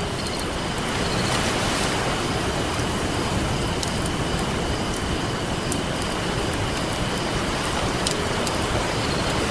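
Ocean surf washing in a steady rush, louder about a second in, with a campfire crackling over it in scattered sharp pops.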